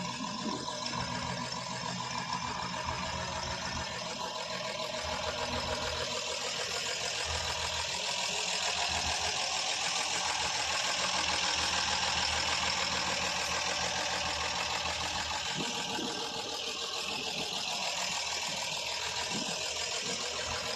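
1964 Rambler American's 196 overhead-valve inline-six engine idling steadily through its exhaust, getting a little louder around the middle.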